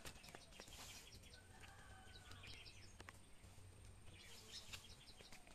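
Faint bird chirps, short high calls in two loose clusters, over a very quiet outdoor background.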